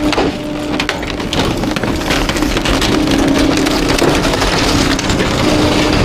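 Garbage truck's packer crushing bulky waste: a steady mechanical whine from the truck runs under crunching and scattered sharp cracks as items break in the hopper.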